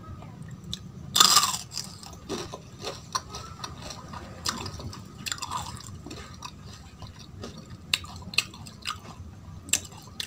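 Jalebi being bitten and chewed close to the microphone: one loud bite about a second in, then a run of smaller sharp clicks and crackles of chewing.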